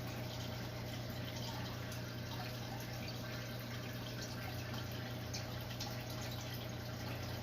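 Aquarium filter running: a steady trickle of water with small drips, over a constant low hum.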